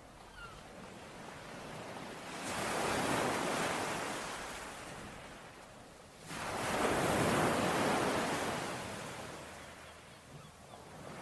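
Ocean waves breaking on a shore. Two waves wash in, about two and a half seconds in and again about six seconds in; each rises quickly, then slowly recedes, with a softer hiss of water in between.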